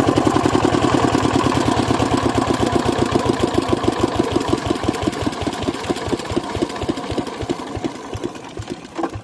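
Single-cylinder diesel engine of a water pump set running down to a stop: its firing beats slow and fade, ending with a last knock about nine seconds in.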